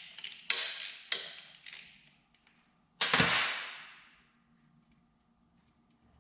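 Half-inch socket ratchet wrench clicking through a few strokes while an engine-mount bolt is loosened. About three seconds in there is a single loud metallic clank.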